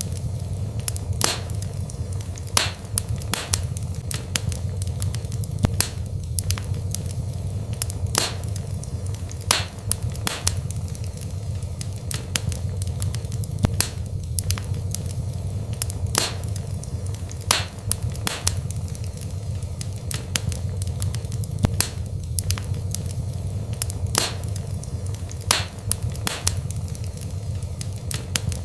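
Wood fire burning in a fireplace: a steady low rumble of flame with frequent sharp crackles and pops from the burning wood.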